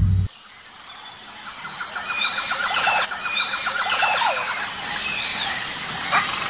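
Birds chirping outdoors: repeated short rising-and-falling chirps over a faster trill, growing gradually louder.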